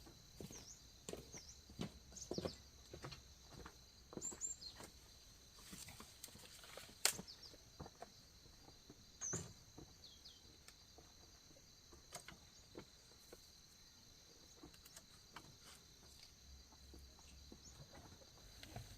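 Faint outdoor ambience: a steady high insect hum, short bird chirps now and then, and scattered light knocks and clicks, the sharpest about seven seconds in.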